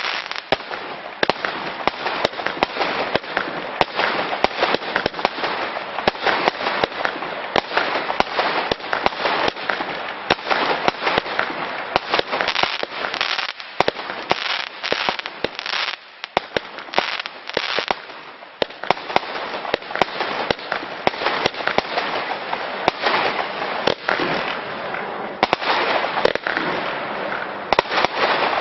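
Weco "Dynasty" compound fireworks battery firing in a continuous rapid barrage of shots and crackling bursts, with a brief lull about halfway through.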